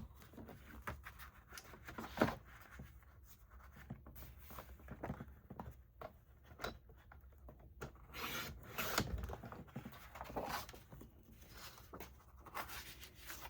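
Paper being handled and trimmed on a sliding paper cutter: scattered rustles and light clicks, with a few short scraping strokes of the blade through the paper.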